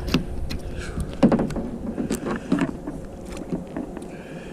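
Irregular clicks, knocks and rustling of handling in a kayak, busiest in the first couple of seconds, as a small channel catfish is brought aboard and unhooked.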